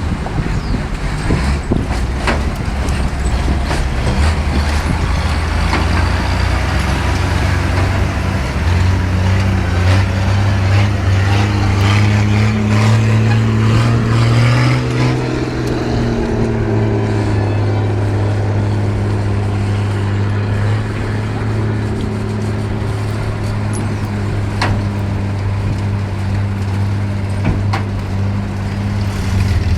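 Heavy truck's engine running. Its pitch rises and grows louder about halfway through as it comes under load, then settles back to a steady run.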